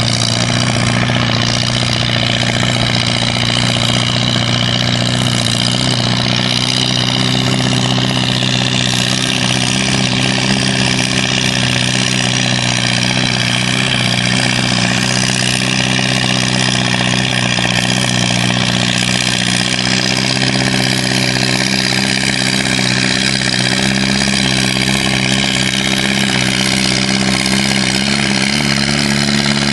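Antique tractor engine running steadily at a constant speed, loud and close.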